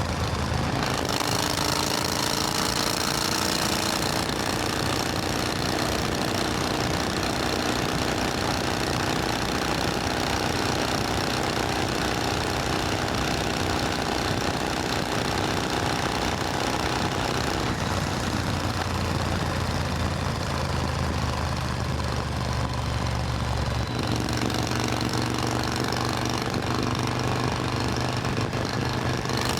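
Supercharged Triumph Thunderbird Storm's 1700 cc parallel-twin engine running steadily, its note shifting about two-thirds of the way through and again near the end.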